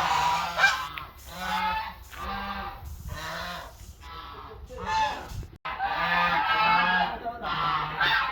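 Domestic fowl calling over and over in a series of short, pitched calls, with a brief gap a little past halfway.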